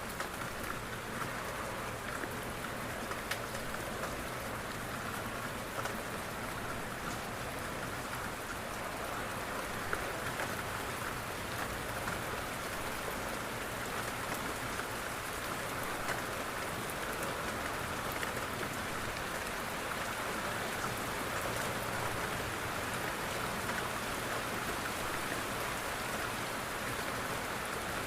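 Steady rain pattering on a window, an even hiss with scattered drop ticks.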